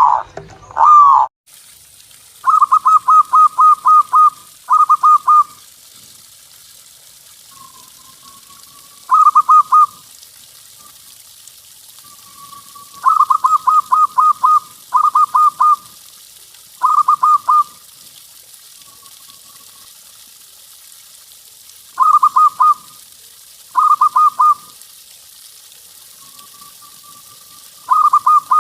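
Zebra dove (perkutut) song: bursts of rapid rolling coo notes, repeated every few seconds, with soft single coos in between, over a steady background hiss. A louder coo from another recording cuts off about a second and a half in.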